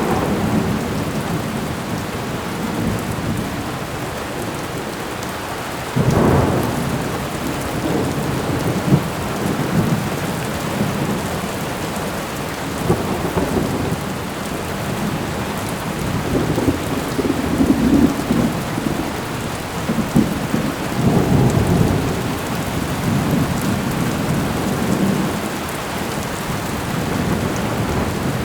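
Thunderstorm: steady rain with rolling thunder, a sudden clap about six seconds in and more low rumbles later on.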